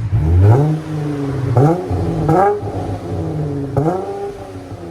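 2023 Dodge Challenger SXT's 3.6-liter V6 being revved in four quick throttle blips, each rising in pitch and falling back to idle. The exhaust runs through MagnaFlow MagnaPack mufflers with the rear resonators cut off and replaced by pipe, ending in custom J-pipes.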